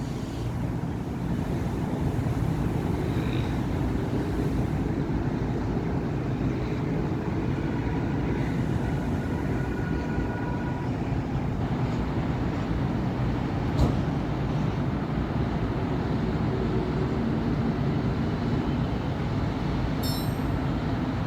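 Road traffic on a busy city avenue: cars and buses passing in a continuous low rumble. A faint whining tone comes through near the middle, and there is a single sharp tick about fourteen seconds in.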